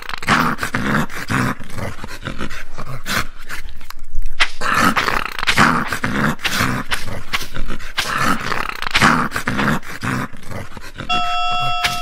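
An animal calling over and over in quick, irregular bursts. A short jingle of plucked notes begins near the end.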